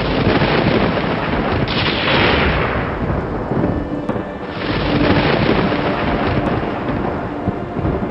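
Thunder rolling in a storm with rain: a rumble swells in at the start, a stronger crack rolls off about two seconds in, and another roll sets in midway. Soft sustained music tones lie underneath.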